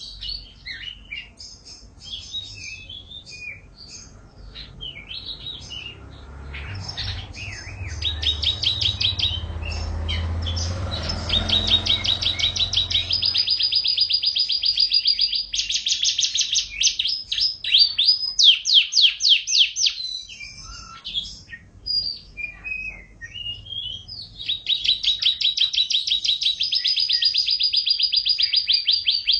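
Domestic canary singing a long, high-pitched song: varied chirping phrases broken by rapid, even trills held for several seconds at a time, the longest starting about halfway through and again near the end.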